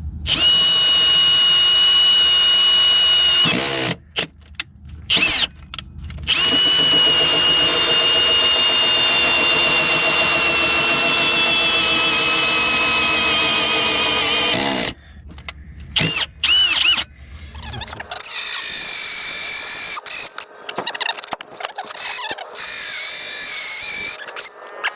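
Power drill boring through a thick solid-teak boat deck. The motor whines steadily in two long runs of about three and eight seconds, its pitch sagging slowly under load in the second. A few short trigger blips follow, then lighter, broken running in the last seconds.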